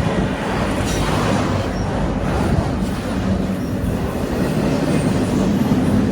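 Train rolling past on the rails: a steady rumble of wheels and cars, with a few faint, short, high wheel squeals.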